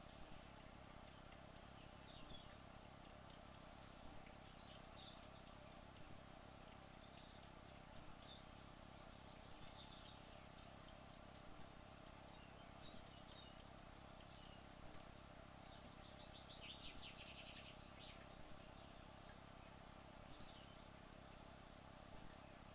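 Near silence: steady low hiss with faint, short, high chirps every second or two, and a brief rapid trill about two-thirds of the way through.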